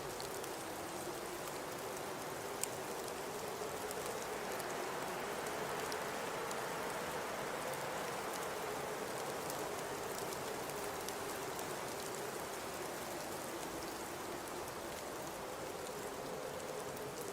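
Blizzard ambience: a steady hiss of high wind and blowing snow, with a low wind howl that slowly drifts up and down in pitch. A single sharp tick stands out about three seconds in.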